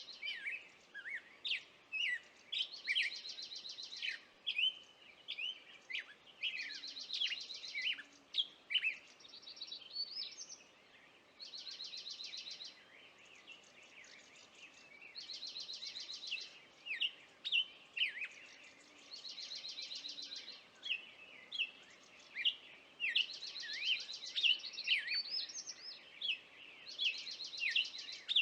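Birds singing: one repeats a rapid trilled phrase of about a second roughly every four seconds, while others give short chirps and quick sliding notes in between.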